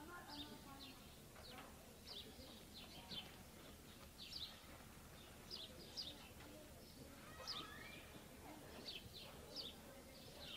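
Faint, scattered chirping of small birds: short high notes that slide quickly downward, coming irregularly about once or twice a second over a low background hiss.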